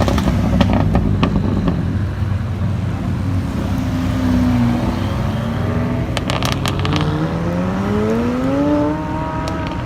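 Sports car engine rumbling with a few sharp crackles, then revving up with a rising pitch in the last few seconds.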